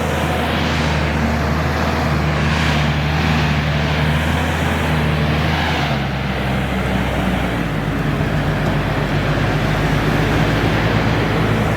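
Heavy diesel earthmoving machinery running steadily under work, its engine note shifting about six seconds in, with a few brief hissing swells in the first few seconds.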